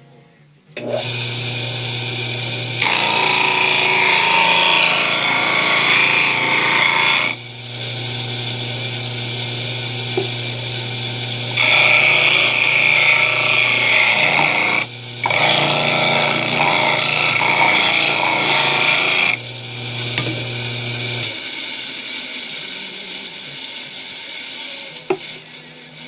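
Homemade disc sander driven by a Mueller washing-machine motor switches on with a steady electric hum, then grinds loudly in three spells as the spinning disc sands. A bit over three-quarters of the way through the motor cuts out and the disc runs down with a fading whir.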